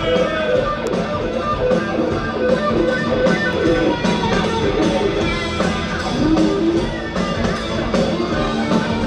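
Live rock band playing the instrumental outro of a song, led by guitar over a steady drum beat, with no singing.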